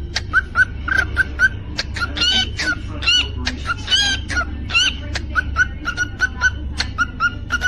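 Cockatiel chirping in a fast run of short repeated notes, with a few louder, higher whistled calls in the middle. A steady low hum sits underneath.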